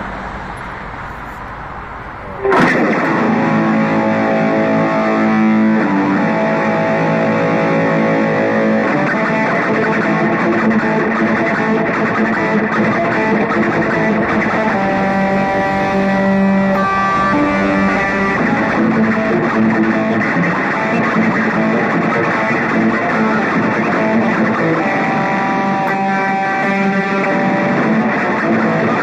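Road traffic hums for the first couple of seconds, then cuts off suddenly into an electric guitar playing slow sustained chords through distortion and heavy reverb effects.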